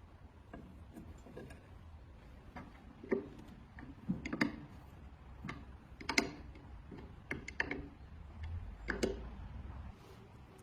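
Irregular light clicks and taps, scattered a second or so apart, over a low steady hum.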